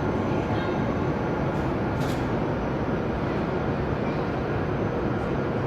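Steady running noise of a train at a station platform, an even wash of sound with no distinct events.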